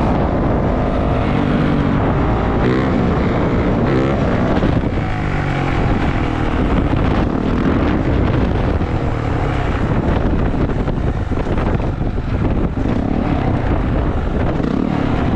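450cc four-stroke dirt bike engine revving while riding, its pitch rising and falling through the first few seconds, with wind rushing over the microphone.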